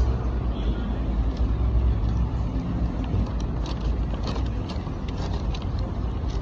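Low, steady rumble of a car's engine and road noise heard from inside the moving car, with a few faint clicks in the second half.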